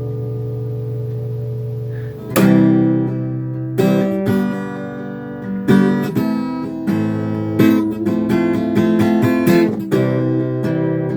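Acoustic guitar: a held chord rings for about two seconds, then chords are strummed every second or two.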